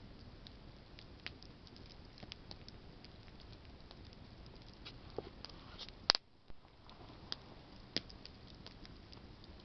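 Campfire of burning branches crackling: a steady hiss of flames with scattered small pops, and one sharp, louder pop about six seconds in.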